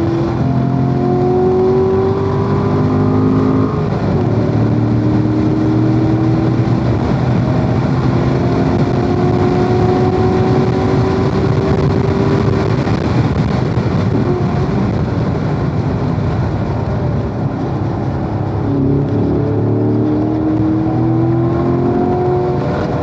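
Corvette engine accelerating hard on a race track, its pitch climbing through the gears. It climbs for about four seconds, drops at a shift and climbs again for a long stretch. It eases off around the middle, then climbs once more and drops again near the end.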